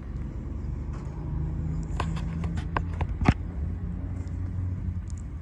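A vehicle engine idling with a steady low hum, with a run of light clicks in the middle, the sharpest about three seconds in.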